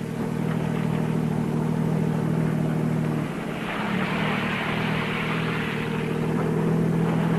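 Chevrolet Corvair Monza Spyder's turbocharged air-cooled flat-six running at a steady speed, a drone that shifts slightly in pitch about three seconds in. A rush of tyre spray through slush builds up midway.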